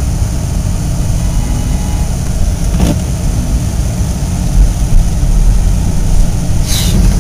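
Car engine running under throttle, heard from inside the cabin, as the drive wheels spin on snow and the car fails to get traction pulling away; a steady loud low rumble.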